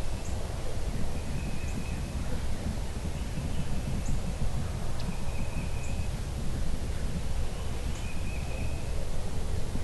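Small birds calling in short, high notes that repeat every second or two, over a steady low rumble of wind and outdoor noise.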